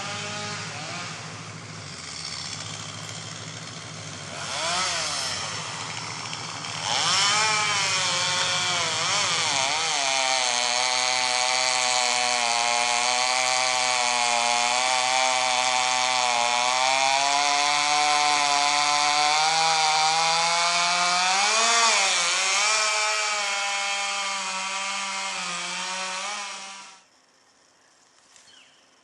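Chainsaw engine revving, then held at high revs for about twenty seconds with its pitch dipping and recovering as it saws through wood. It stops abruptly near the end.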